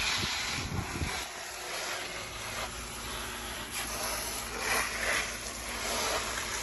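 Water running and splashing onto potted plants as they are watered: a steady, even hiss, with a few low bumps on the microphone in the first second.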